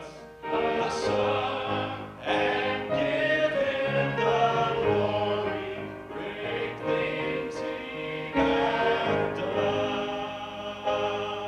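A small vocal group singing a sacred song in several-part harmony, with held notes, dying away at the very end.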